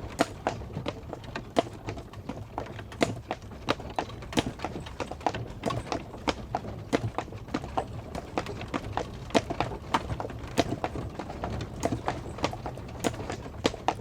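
Horse-drawn carriage: a horse's hooves clip-clopping, several sharp knocks a second in an uneven rhythm, over a steady low rumble.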